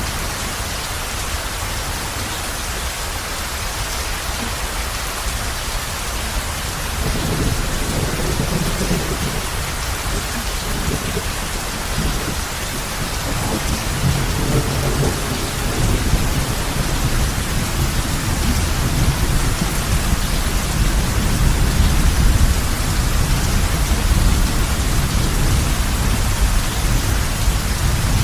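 Heavy rain falling on a roof, a steady even hiss, with a low rumble of thunder coming in about a quarter of the way through and growing louder in the second half.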